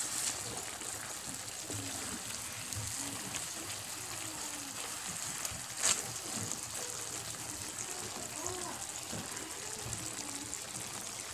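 Chicken pieces sizzling gently in their own released juices in a pan, stirred with a wooden spatula, with a sharp knock about six seconds in.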